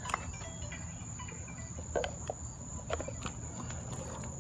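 Crickets trilling steadily on one high pitch, with a few light knocks and clatters, about a second apart, as the pit bike is handled.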